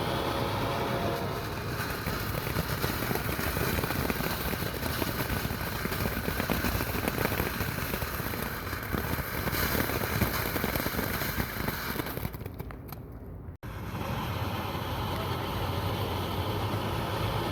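Consumer firework going off with dense, continuous crackling for about twelve seconds, over a steady low hum. The crackle thins out and then cuts off abruptly near the end.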